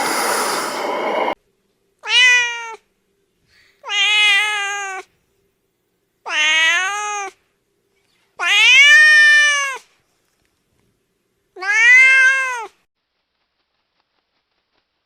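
Domestic cat meowing five times, each meow a drawn-out call that rises and then falls in pitch, a couple of seconds apart. A rushing noise opens and cuts off after about a second and a half.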